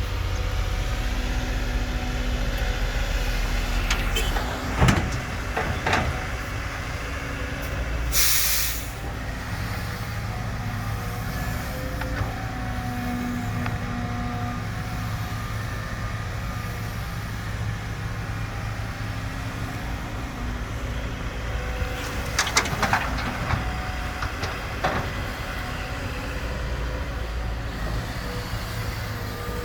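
Caterpillar 313D2 GC excavator's diesel engine running steadily while it loads a truck. Sharp knocks come about 5 and 6 seconds in and again in a cluster a little past the middle, with a short hiss about 8 seconds in.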